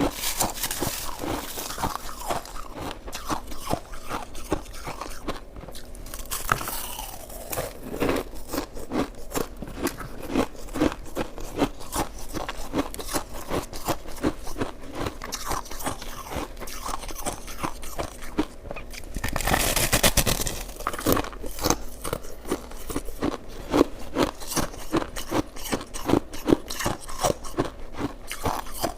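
Close-up crunching and chewing of shaved ice: rapid, crisp crackles bite after bite, with a louder, denser stretch of crunching about twenty seconds in.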